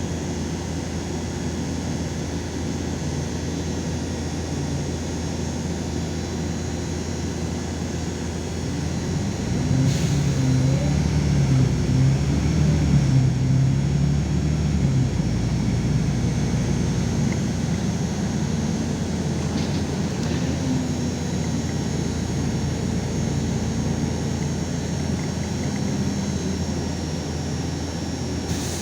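LiAZ 5292 city bus on the move: steady engine drone and road noise that swell about nine seconds in, are loudest a few seconds later, then settle back to an even run. A thin high whine runs underneath throughout.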